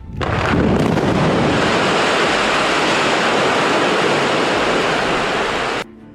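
A loud, steady rushing noise that builds up in the first second and cuts off abruptly near the end.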